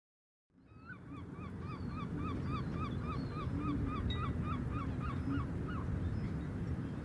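Estuary birds calling: a rapid run of short, upswept calls, about three a second, fading in after a moment of silence and stopping about six seconds in, over a steady low rumble of background noise.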